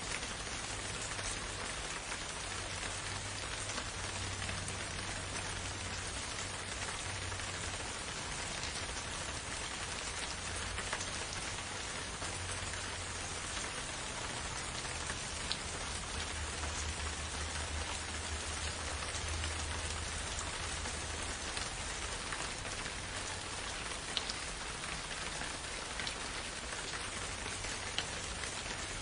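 Steady rain falling in a forest, a dense even patter with scattered louder drops, over a low rumble that swells and fades.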